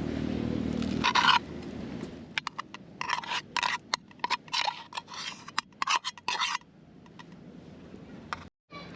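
A run of short, quick scraping strokes, about a dozen in three to four seconds.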